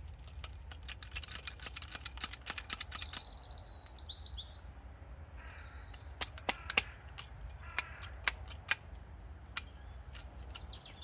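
Hand pop-rivet gun being squeezed and setting pop rivets: a quick run of clicks, then several louder sharp snaps a little over halfway through. Birds call in the background.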